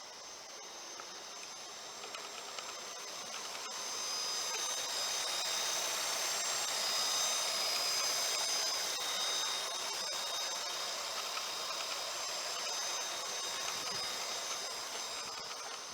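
Engine bay of a 2016 Nissan Maxima with its 3.5-litre 24-valve V6 running: a steady whirring hiss with thin high whines, swelling about four seconds in and easing slightly later.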